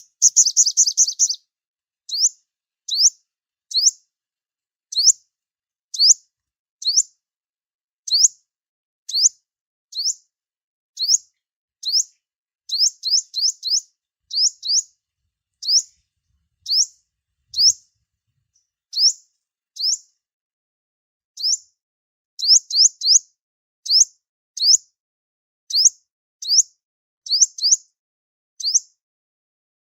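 Sunbird calling: short, sharp, high chirps that sweep upward, given singly or in quick runs of three or four, about one to two a second, with a dense flurry of calls at the very start.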